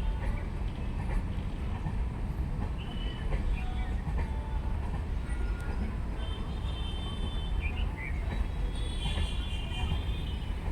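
Passenger train running, a steady low rumble throughout, with thin high tones that come and go.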